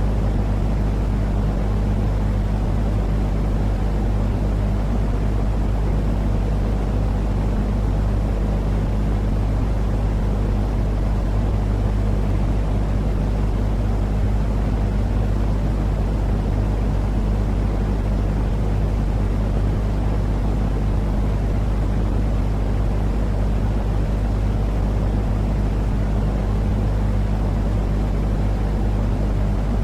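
Steady sleep noise for babies: an even, unchanging low rumbling hiss with a constant low hum beneath it, like the drone inside a vehicle or aircraft cabin.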